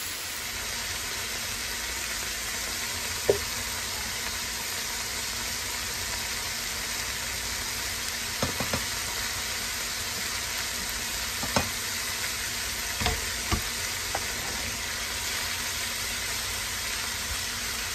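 Halved Brussels sprouts sizzling steadily in hot oil in a skillet. A few sharp clacks sound, one about three seconds in and a cluster in the middle, as chopped garlic is knocked off a cutting board into the pan and a spatula stirs.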